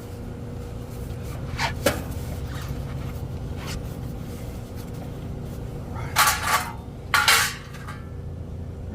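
Metal hand tools being handled and set down, with a small click about two seconds in and two louder clatters about six and seven seconds in, over a steady low background hum.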